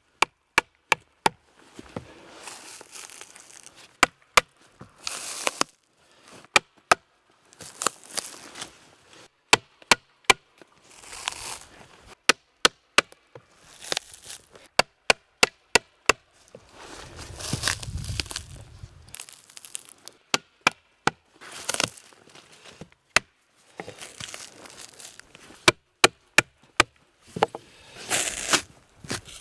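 Wood being chopped with a blade tool, many sharp separate strikes, sometimes in quick runs, with scraping and tearing noises between them.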